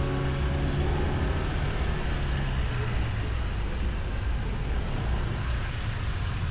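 Motorbike engine running at a steady pace with road and traffic noise around it, heard from the rider's seat. Background music fades out in the first second or so.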